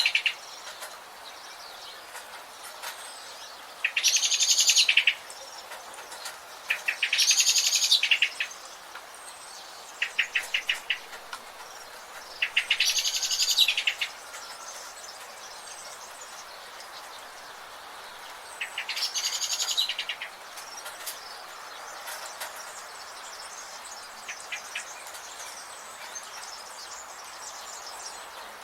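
A songbird singing loud, rapid, high-pitched trilled phrases about a second long, about four times and several seconds apart, with a shorter run of quick notes between two of them. A steady hiss runs underneath.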